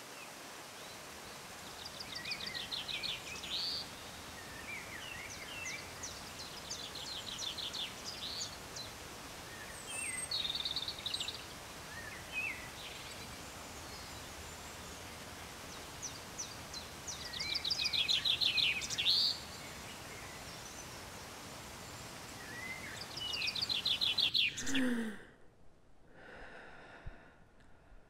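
A songbird singing short, rapid trilled phrases, each ending in a brighter flourish, five times over a steady outdoor hiss. Near the end the background cuts off suddenly, leaving a few faint, soft sounds.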